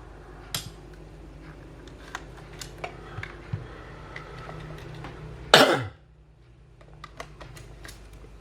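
Light clicks and taps of small camera parts and a battery being handled on a workbench, scattered through the stretch. About five and a half seconds in there is one louder, brief burst that falls in pitch.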